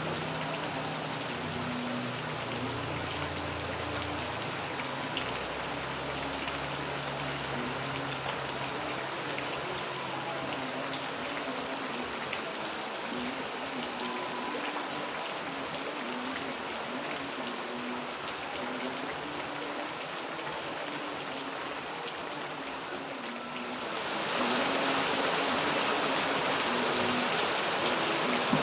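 Rain falling steadily, a constant hiss that suddenly gets louder and brighter about 24 seconds in.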